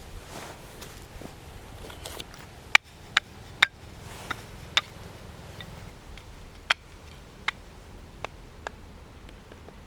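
Wood fire crackling, with about ten sharp, irregular pops over a soft hiss; the loudest come about three seconds in.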